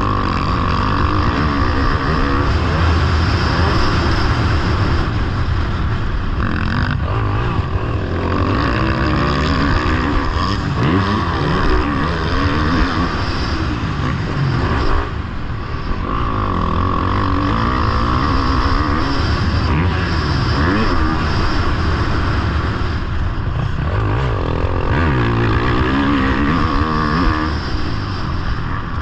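Motocross bike engine revving hard, its pitch rising and falling again and again as the throttle opens and shuts, heard close up from a camera riding on the bike. There is a brief drop in level about halfway through.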